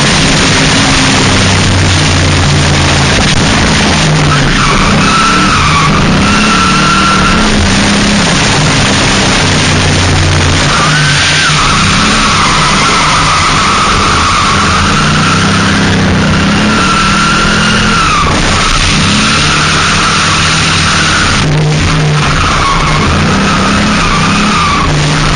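Drift car sliding through repeated drifts: the engine revs up and down under load while the tyres squeal in several long, wavering stretches. The source is a 2000 Ford Mustang drift car.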